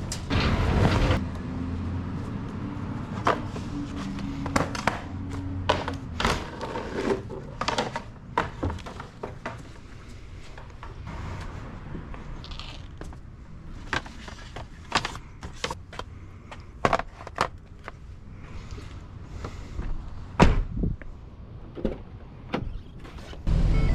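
Scattered knocks, thuds and clatters of junk and debris being handled and tossed. Near the end a truck engine comes in with a steady low running sound.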